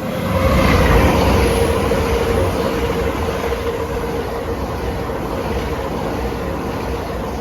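Two coupled Great Western Railway Class 800 bi-mode trains passing through at speed. The rumble rises sharply about half a second in and then eases off slowly, with a steady hum running throughout.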